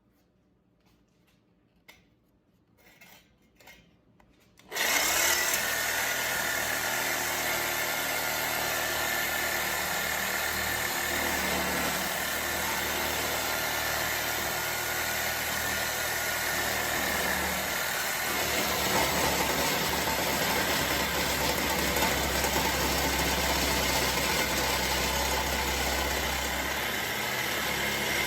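Near quiet with a few faint clicks. Then, about five seconds in, a power tool starts suddenly and runs steadily without a break.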